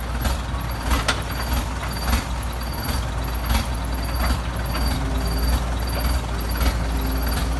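Heavy diesel excavator engine running steadily, with occasional sharp metallic knocks and a faint high-pitched tone repeating about twice a second.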